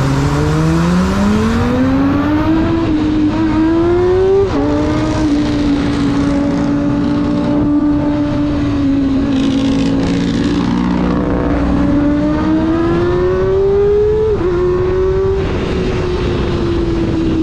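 Kawasaki ZX-25R's 250 cc inline-four engine under way. It revs up hard through the first few seconds, with the pitch falling suddenly at an upshift about four seconds in. It then holds a steady cruise before revving up again with another quick drop near the end.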